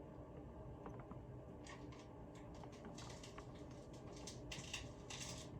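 Faint, irregular scratching and rustling: a quick run of short scrapes and ticks that starts about a second and a half in, over a low steady hum.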